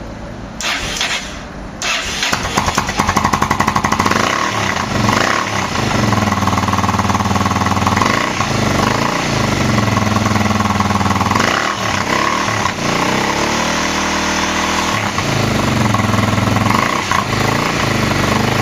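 Yamaha XT600E's single-cylinder four-stroke engine breathing through an aftermarket Quill exhaust: it is cranked and catches about two seconds in, then runs with the throttle blipped several times, the revs rising and falling.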